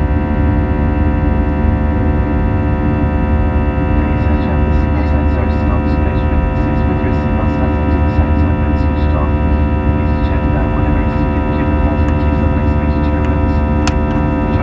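Airbus A320neo's turbofan engines running steadily under takeoff power, heard inside the cabin: a deep rumble with a chord of steady whining tones. Faint small ticks come in from about four seconds in.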